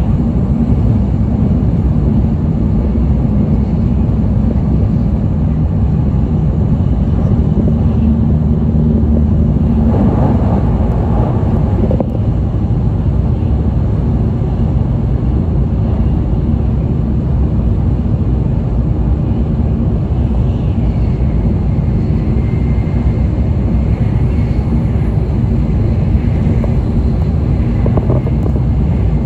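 Running noise of an N700A Shinkansen heard from inside the passenger car at speed: a steady low rumble, with a brief swell about ten seconds in.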